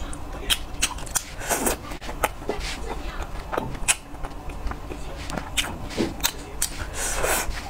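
Close-up chewing and wet mouth sounds of someone eating fried skewered food, with irregular smacks and clicks.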